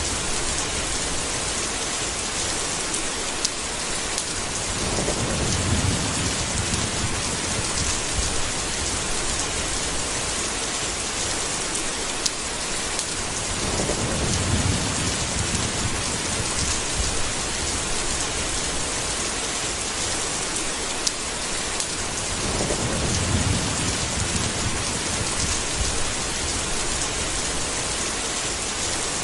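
Steady heavy rain with scattered drop ticks, and distant thunder rumbling low three times, about every nine seconds.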